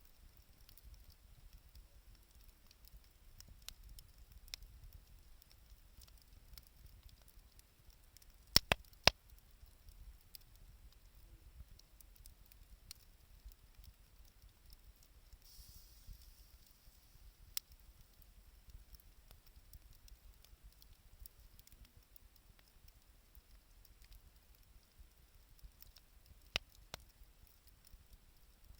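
Wood campfire crackling: a steady scatter of faint ticks, with three sharp pops close together about nine seconds in and single pops later. A brief hiss comes about sixteen seconds in.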